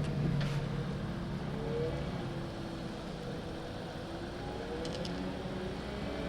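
Audi A5 Avant prototype's engine fading away as the car drives off along the track, then faint distant engine notes rising and falling as it accelerates and shifts. Two brief clicks are heard, one near the start and one about five seconds in.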